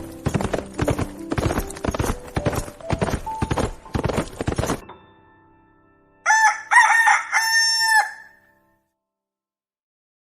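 A rapid run of sharp knocks with a few notes stepping upward, then a brief lull and a rooster crowing once, a cock-a-doodle-doo of about two seconds a little past halfway.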